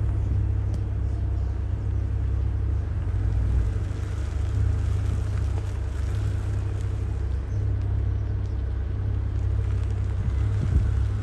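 Lamborghini Huracán's V10 with an Fi aftermarket exhaust running at low revs as the car crawls along a dirt track: a steady low rumble, with a few low thumps near the end.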